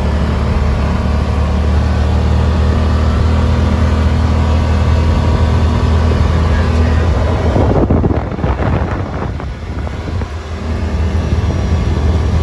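Yamaha Wolverine side-by-side's engine running steadily as it drives. About eight seconds in, the steady engine note gives way to a rougher, noisier stretch and drops in level for a couple of seconds, then the steady running returns.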